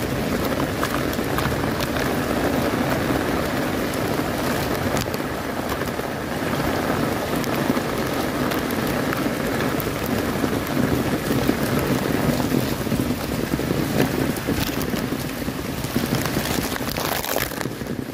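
Heavy typhoon rain falling steadily on an umbrella held just above the microphone and on the wet pavement, a dense even hiss scattered with sharp drop hits.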